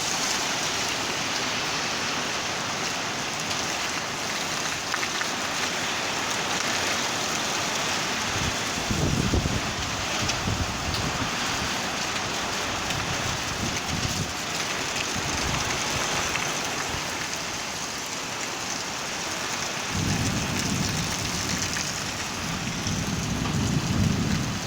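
Steady heavy rain hissing down, with two spells of low rumbling: one about nine seconds in, and another from about twenty seconds on.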